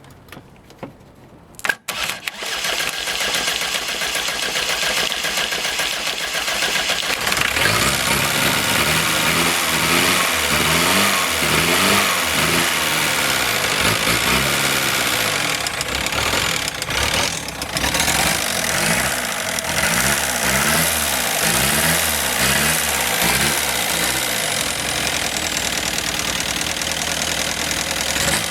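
VW Eurovan 1.9 turbo diesel engine cranking and catching about two seconds in, then running and being revved up and down again and again. The engine has a miss, which the seller puts down to a stuck or dirty injector.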